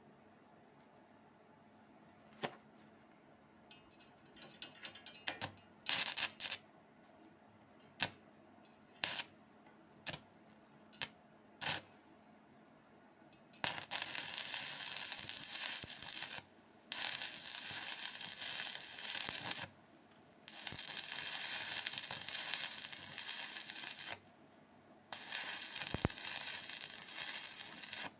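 Stick welding arc: the first half holds scattered short pops and brief crackles as the electrode is struck. Then, about halfway in, the arc burns with a steady hissing crackle in runs of a few seconds, broken by three short pauses.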